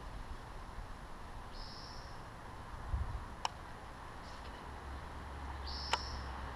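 A bird gives a short, high, thin whistled note twice, about four seconds apart, over a steady outdoor hiss. Two sharp clicks sound between and with the calls.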